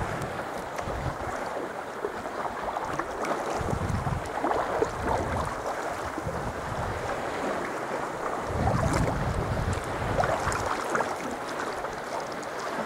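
Wind buffeting the microphone in gusts over sea water lapping and splashing around a kayak, with small scattered water clicks and drips.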